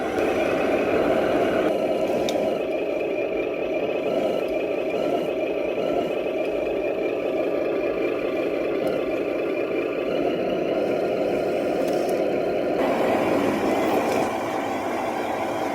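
Remote-control 8x8 truck running, a steady whir with a higher whine over it that shifts about two seconds in and again near the end.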